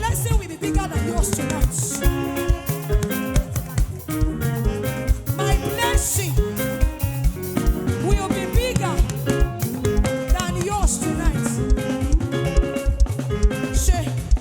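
Live praise band music with a fast, steady drum beat.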